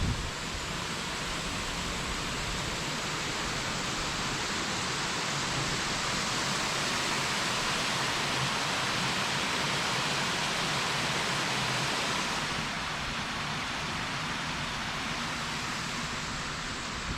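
Steady rush of water from a small waterfall on a beck, an even hiss with little low rumble. It eases slightly about twelve seconds in.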